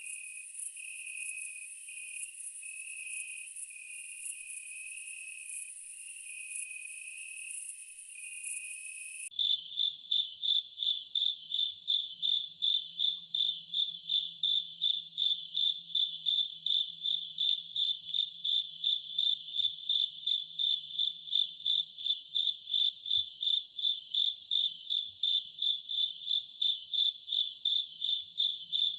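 Night insects: a steady, high buzzing chorus that switches abruptly about nine seconds in to a clear, high cricket chirp repeating evenly about two to three times a second.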